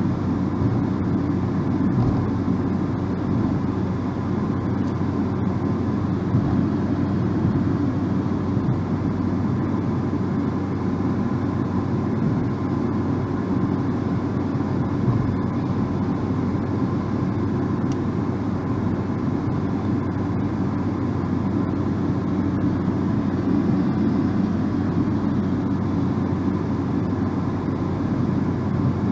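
Car driving at a steady speed: an even, low rumble of road and tyre noise with engine hum, and a faint steady high tone.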